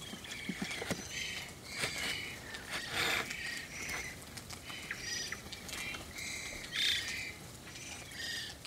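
A flock of varied thrushes trilling and warbling at each other: many short calls overlapping throughout, with the loudest ones about three seconds in and near seven seconds.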